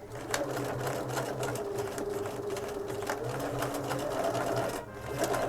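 Bernina 335 sewing machine running steadily while sewing topstitching at a lengthened stitch. It slows and drops briefly near the end, then starts up again.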